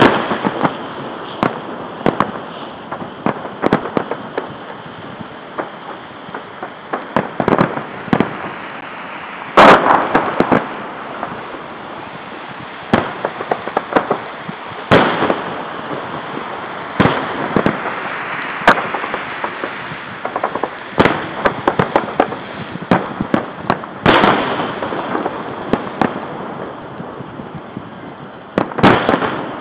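Aerial fireworks shells bursting at irregular intervals, with bigger bangs about ten, fifteen, twenty-four and twenty-nine seconds in, and a steady run of smaller pops and crackles between them.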